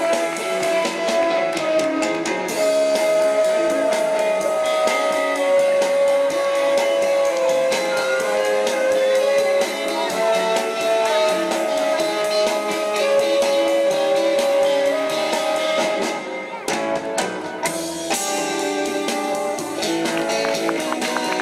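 A band playing an instrumental passage with guitar and drums, the melody carried in long held notes; the music breaks off briefly about sixteen seconds in and then starts again.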